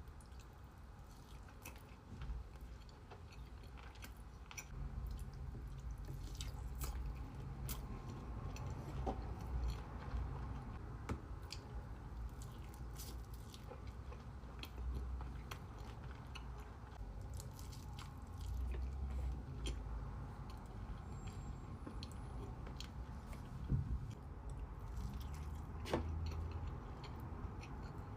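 Close-miked chewing of sushi, wet squishing mouth sounds with frequent small clicks and smacks.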